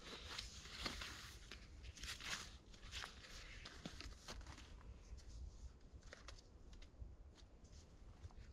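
Faint rustling and light scraping of a rope being wound up by hand, with scattered soft clicks, busiest in the first few seconds.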